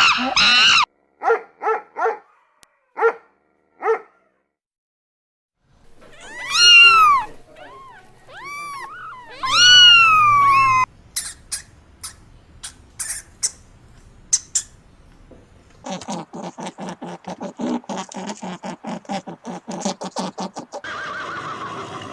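A sequence of different animal calls, one after another: several short calls early, then loud calls that sweep up and down in pitch, then sharp chirps, and a fast pulsing series near the end.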